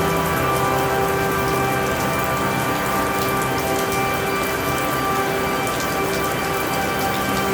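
Steady rain falling, with soft sustained tones of ambient music that swell and fade underneath.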